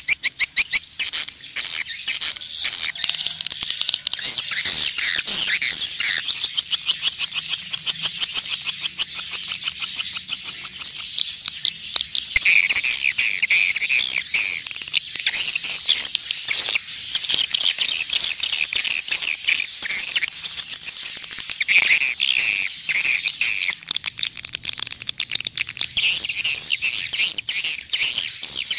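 A flock of swiftlets calling: a dense, fast chatter of high chirps and rattling clicks, with a run of lower twittering calls through the middle.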